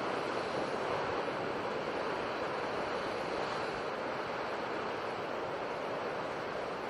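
Steady rushing noise of sea surf, with no single wave break standing out from the wash.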